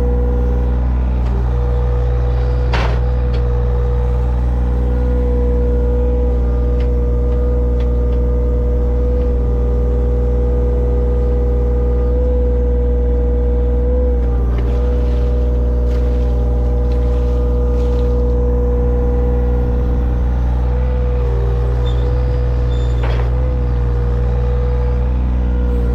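Engine of a digging machine running steadily at constant speed, with a steady whine over it. A couple of short knocks come about three seconds in and again near the end.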